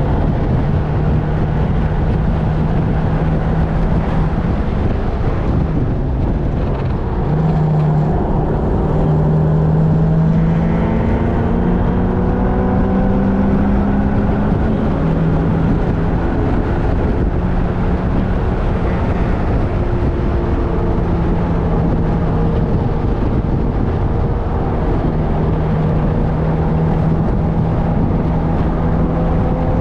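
Vehicle engine heard from on board during a fast track-day lap, with steady wind and road noise. The engine's pitch climbs and drops several times as it accelerates and changes gear.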